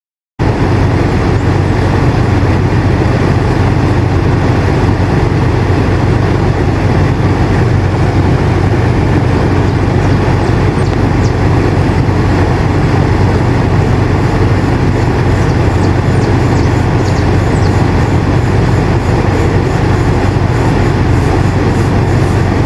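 Air conditioner running steadily: an even rushing noise over a low, constant hum. It cuts in abruptly about half a second in, after a brief silence.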